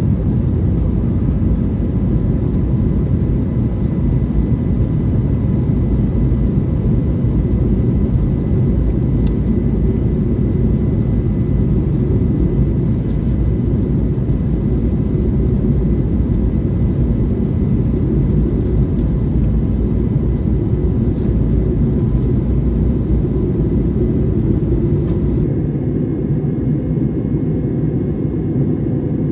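Steady low roar of jet engines and airflow inside the cabin of an Airbus A321neo airliner, with faint steady whining tones above it. The sound becomes slightly duller and quieter near the end.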